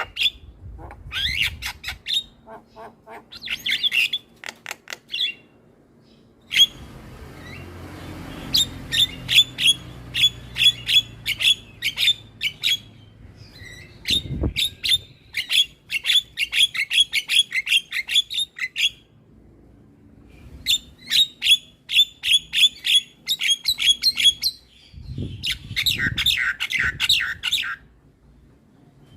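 Javan myna (jalak kebo) calling: rapid runs of sharp, harsh chattering notes in bursts of a few seconds, with short pauses between them.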